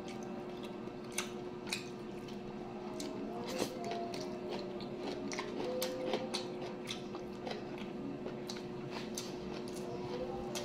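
Close-up mouth sounds of a person eating rice and cabbage by hand: chewing with many irregular, sharp, wet mouth clicks, over a steady low hum.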